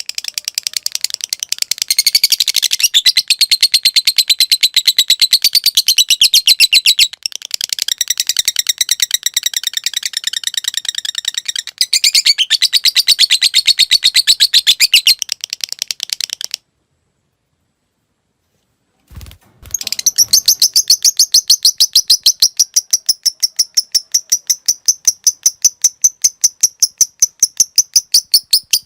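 Lovebird chattering in a long, rapid, high-pitched trill of quickly repeated notes, the 'ngekek panjang' long chatter. About two-thirds of the way through it cuts off suddenly for about two seconds of silence, with a brief low thump, then starts again.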